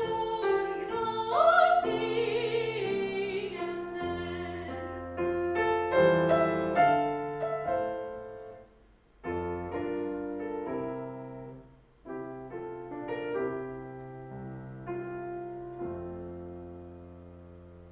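Classical song performed live by a singer with piano accompaniment. The voice stops about three seconds in, and the piano plays on alone through a closing passage with two brief pauses, ending on a held chord that fades away.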